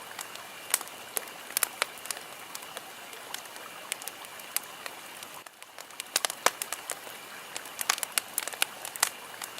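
Fire crackling: irregular sharp pops and snaps over a steady hiss, which drops briefly about halfway through.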